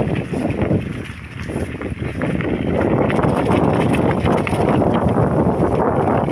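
Wind buffeting the microphone during a bicycle ride: a loud, rough rumble that eases for a moment about a second in, then picks up again.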